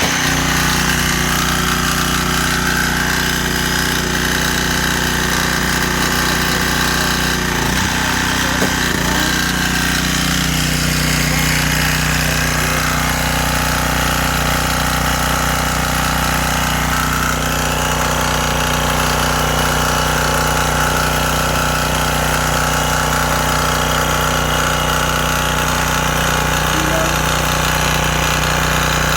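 A motor-driven machine running steadily and loudly at a constant speed, with a brief change in the sound about eight seconds in.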